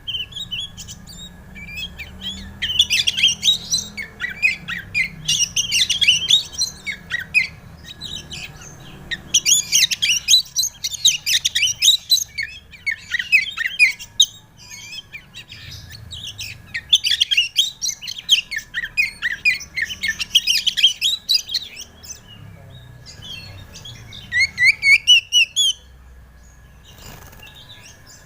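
Oriental magpie-robin (kacer) singing: bursts of rapid, varied whistled notes, phrase after phrase with short pauses between. Near the end come quick upward-sweeping notes.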